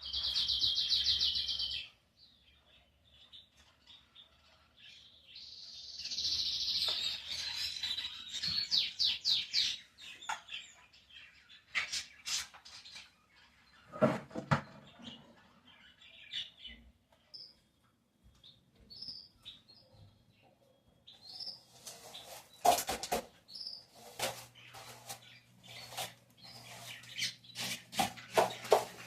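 Songbirds singing: a loud, rapid high trill at the start, another from about six seconds in, then short high chirps. Scattered sharp knocks and clatter from household objects being handled come in from the middle and grow thicker near the end.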